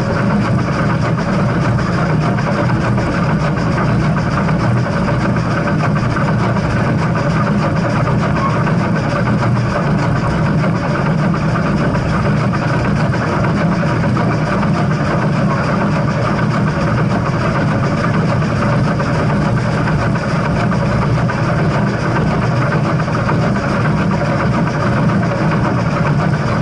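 Steady low rumble of a heritage steam train, without a whistle or distinct exhaust beats.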